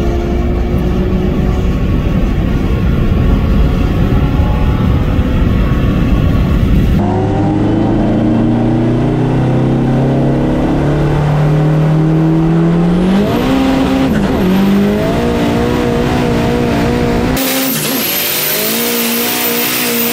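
Cars racing at full throttle, a big-turbo Dodge SRT-4 against a C6 Corvette Z06. The engine pitch climbs steadily through a gear, dips and recovers at a shift, then holds. The sound changes abruptly about seven seconds in and again near the end.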